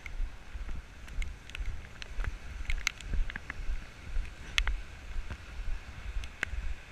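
Wind buffeting a GoPro's microphone over footsteps on wet ground, about two steps a second, with scattered sharp ticks of rain striking the camera.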